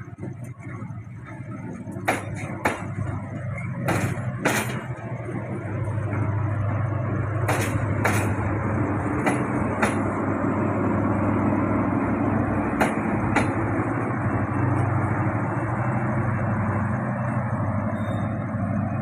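A train passing: a steady engine drone that grows louder about six seconds in, with four pairs of sharp clacks, each pair about half a second apart, as wheels cross rail joints.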